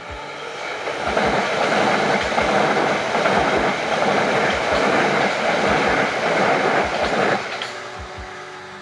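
Passenger train passing close by at speed: a rushing rumble that builds up about a second in, holds for around six seconds, then fades quickly as the train clears.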